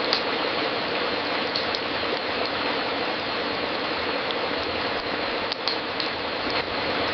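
Fireplace fire crackling: a steady hiss with scattered sharp pops, several close together near the end.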